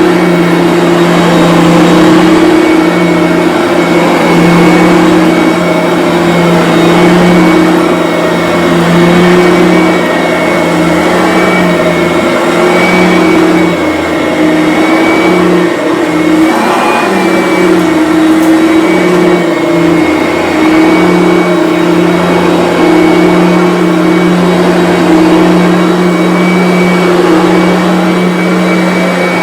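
Bissell BigGreen Commercial upright vacuum cleaner running on low-pile carpet: a steady motor whine with a high whistle over it. The level swells and dips slightly as it is pushed back and forth.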